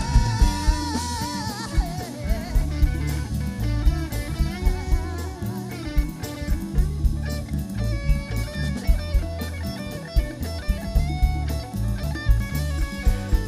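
Live band playing an instrumental break: an electric guitar solo with bent, wavering notes over a drum kit and bass.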